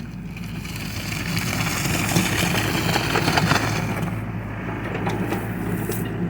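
John Deere excavator's diesel engine running steadily, with loud crunching and cracking from the bucket working material from about a second in until about four seconds in, then a few fainter cracks.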